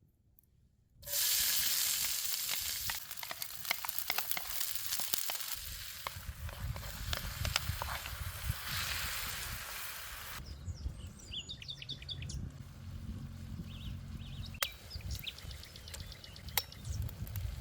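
Menemen sizzling in a pan over a wood fire. A loud hiss starts suddenly about a second in and eases after about ten seconds, with scattered sharp clicks throughout.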